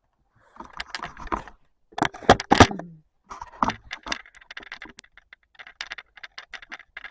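Close rustling and crackling with a loud cluster of sharp snaps about two seconds in, followed by a run of small irregular clicks and ticks.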